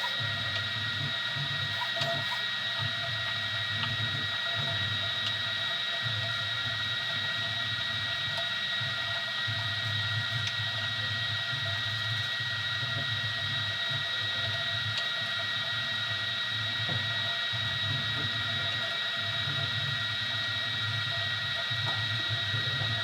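Easythreed X2 desktop 3D printer running a print: a steady high whine over an uneven low whirr as its stepper motors drive the print head.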